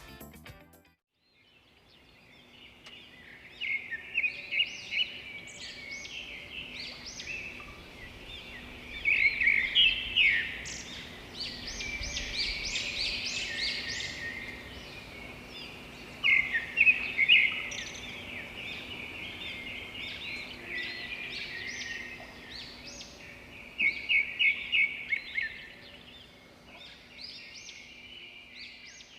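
Small birds chirping and twittering in quick clusters of short high notes, with louder runs of rapid repeated chirps several times.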